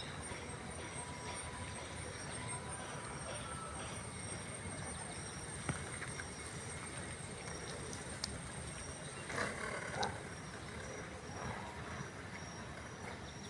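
Steady outdoor background noise with a thin steady high whine and a high pulsing chirp. There are a couple of sharp clicks about six and eight seconds in, and a brief louder rustling scuffle about nine to ten seconds in.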